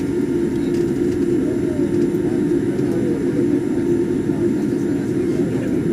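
Steady cabin noise inside a Boeing 787 on the ground before takeoff: a constant low hum from the engines and air systems, with faint passenger voices beneath it.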